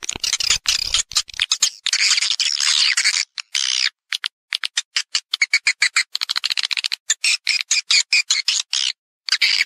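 Edible-nest swiftlets calling: dense, rapid chirping and twittering in quick bursts with brief gaps, the recorded call used to lure swiftlets into a nesting house.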